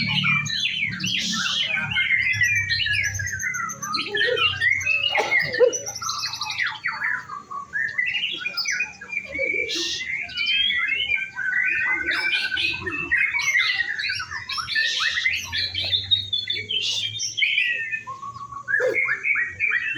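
White-rumped shama (murai batu) song: a continuous run of rapid, varied whistled phrases and trills, with a low hum underneath.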